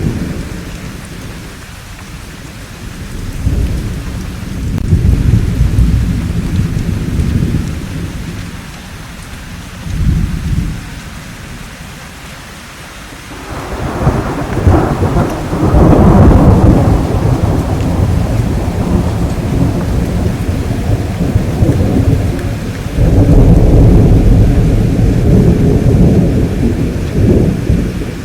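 Thunderstorm: steady rain under rolling thunder, with a rumble swelling about three seconds in, a short one about ten seconds in, a long loud peal from about fourteen seconds that rolls on for several seconds, and another heavy rumble near the end.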